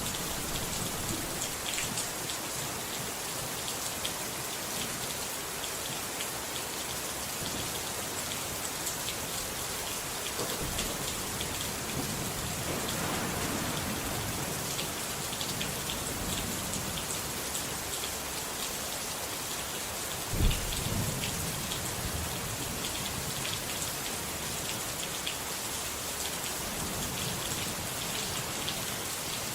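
Steady rain falling, a dense even patter, with low rumbles of thunder: a soft one near the middle and a sharper, louder one about two-thirds of the way in.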